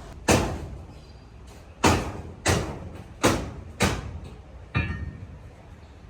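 Six heavy blows on sheet steel, each with a short ringing decay, at an uneven pace over about five seconds; the last blow rings with a few clear metallic tones.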